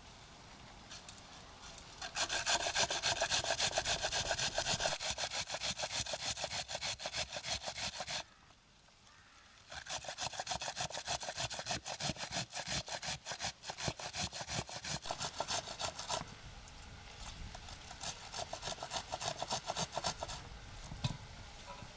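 Rapid, rhythmic back-and-forth scraping strokes in three runs, stopping briefly about eight seconds in and going on more quietly near the end.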